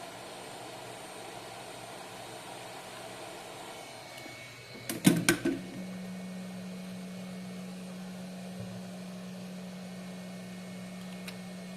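Steady blowing hiss of a hot-air rework station heating a chip on a motherboard. About five seconds in there are a few sharp clicks, after which a steady low hum carries on.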